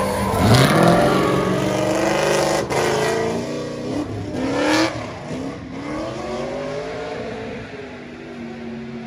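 Drift car's engine revving hard, its pitch climbing and dropping several times as it slides. It grows fainter after about five seconds as the car pulls away.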